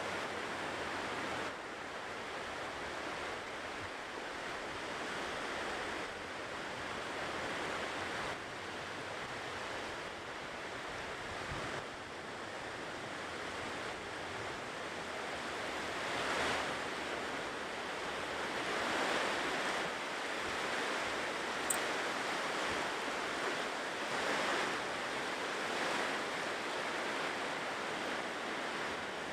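Ocean surf washing onto a shore as a continuous rushing sound that swells and ebbs as waves break, louder surges coming every few seconds in the latter part. One brief, faint click is heard partway through.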